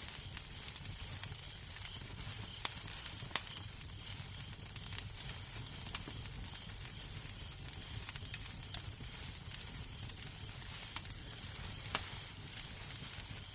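Fireplace fire burning with a steady hiss and irregular sharp crackles and pops, over a low rumble.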